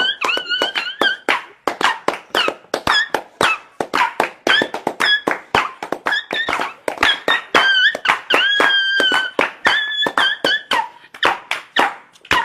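A rapid string of high-pitched squeaks, several a second, some held briefly with a slight bend in pitch.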